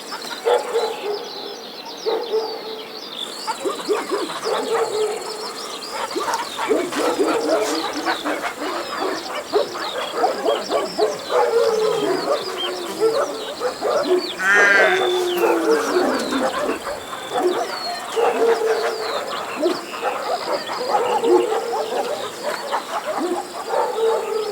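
Busy farmyard animal calls: many short calls overlapping at once, with a longer, rising call about fourteen seconds in.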